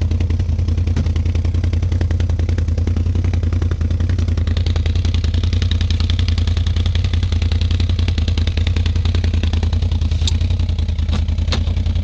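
ATV engine running steadily under load on a muddy climb, with a fast, even pulsing and some clatter and rattle. A few sharp clicks or knocks come near the end.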